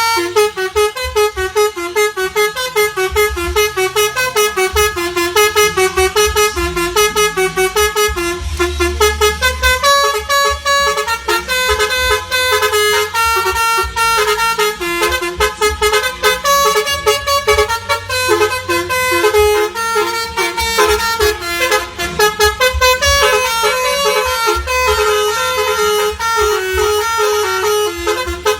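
Indonesian 'telolet' Basuri V3 multi-tone bus horn on a Scania bus, playing a fast melody: loud horn notes stepping quickly up and down in pitch, pulsing several times a second without a break.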